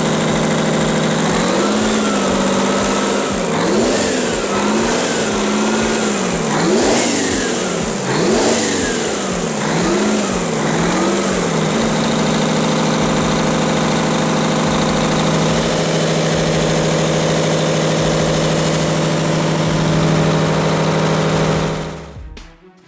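An old engine running, revved up and down about half a dozen times, then settling back to a steady idle before fading out near the end.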